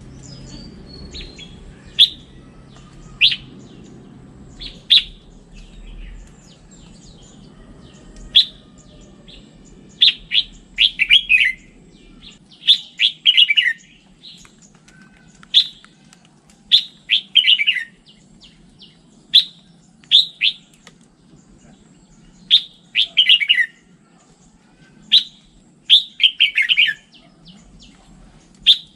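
Red-whiskered bulbul singing: short sharp chirps and quick falling warbled phrases of about a second each, repeated every second or two.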